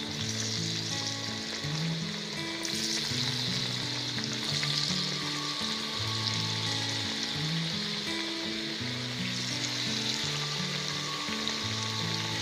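Battered eggplant pakoras deep-frying in hot oil, a steady sizzle, with background music of low stepped notes underneath.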